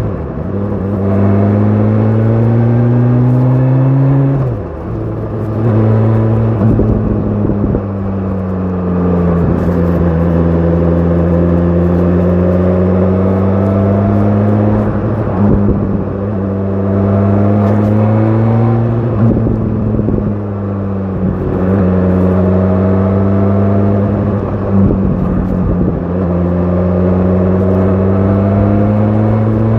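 BMW S1000 RR's inline-four engine, running through an Akrapovic exhaust while riding. Its pitch climbs steadily, then drops sharply several times as it shifts up, with stretches where it falls off and picks up again.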